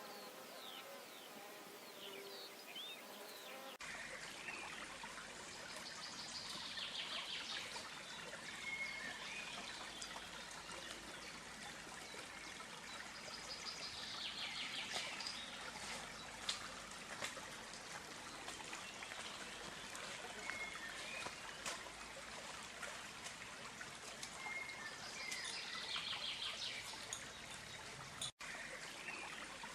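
A buzzing insect with a few chirps for the first four seconds, then a sudden switch to a steady trickling stream with birds singing short high phrases every several seconds. The sound drops out briefly near the end.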